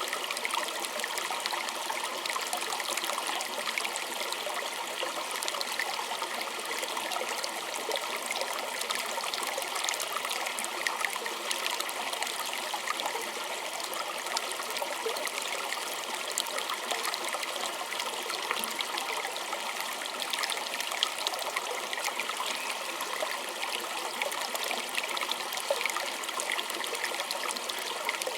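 Small stream trickling and gurgling steadily over stones, a continuous bubbling water sound with many fine splashes.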